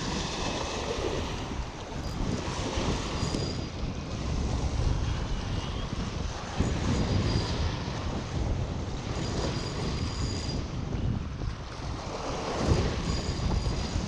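Wind buffeting the microphone in uneven gusts over the wash of a choppy river.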